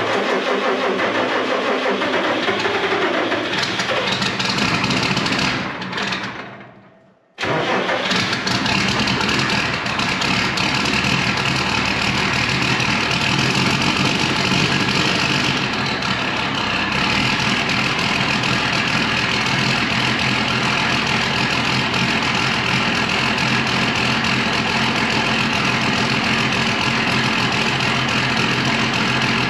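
Deutz diesel tractor cold-started in frost: the engine turns over and runs, the sound dies away at about six to seven seconds, then returns suddenly and settles into a steady diesel idle.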